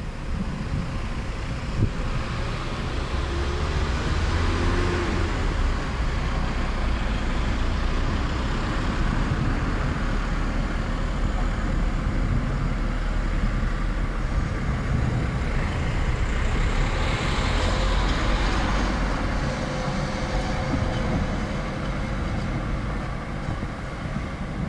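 Thunder rumbling in a long, continuous roll with a heavy low rumble. It swells a couple of seconds in, builds again about three-quarters of the way through, and eases off near the end.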